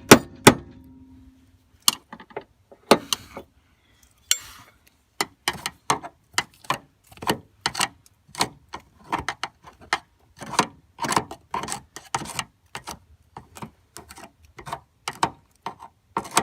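Repeated metal-on-metal strikes and taps on a stuck truck door hinge pin, made with an improvised tool instead of a hammer. Two loud hits open it, one ringing briefly, then a steady run of taps at about two a second from a few seconds in.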